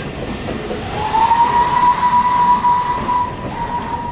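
Ffestiniog Railway narrow-gauge carriages rolling past behind a steam locomotive, with the rumble and clatter of wheels on the track. About a second in, a single high squealing tone rises a little and is held for about three seconds.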